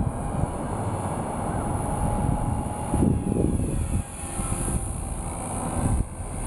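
Small electric RC helicopter in flight: a 4F200 with a brushless Turboace 352 motor and a three-blade main rotor, its motor and rotor giving a steady whine with a high-pitched edge. The whine dips briefly about four and six seconds in, and a gusty low rumble runs under it.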